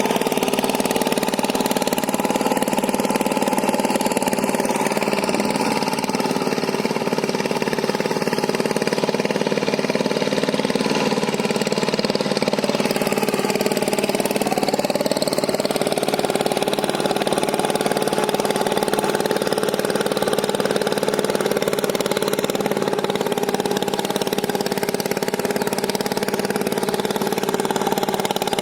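A power tiller's single-cylinder diesel engine running steadily at an even pitch.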